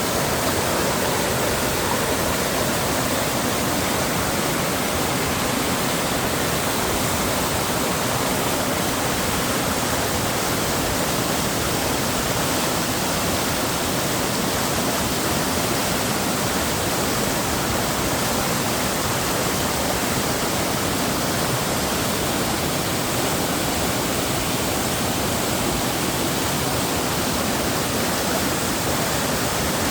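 Steady, unbroken rush of water from a mountain stream tumbling over rocks.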